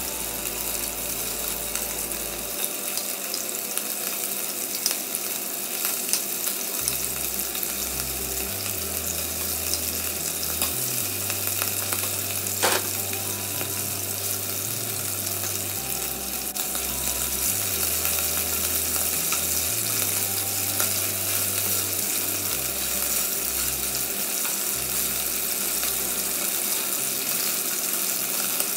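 Beef cubes sizzling and spattering in hot oil in a nonstick pot, with a steady crackle throughout. A sharp click a little under halfway through comes from metal tongs against the pot as the pieces are turned.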